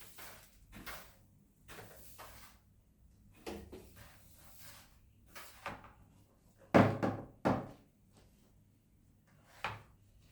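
Scattered knocks and clatters of household things being handled, with two loud knocks in quick succession about seven seconds in and another near the end.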